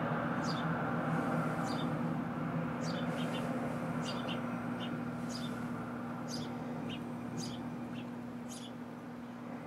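House sparrows chirping: short, high, downward-sliding chirps repeated one or two a second, over a steady low hum.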